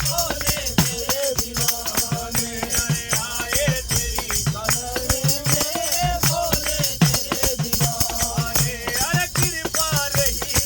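Group of men singing a Hindu devotional bhajan (kirtan) together, over a steady hand-drum beat and continuous jingling, rattling percussion.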